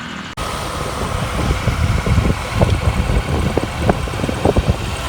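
Riding noise from a Hero Honda CBZ Xtreme motorcycle on the move: engine and road rumble with wind gusting over the microphone. The sound breaks off for an instant about a third of a second in, then picks up again.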